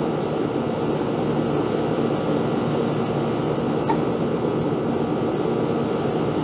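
Aircraft flying over: a loud, steady drone with a few held tones in it, swelling up just before and holding level throughout.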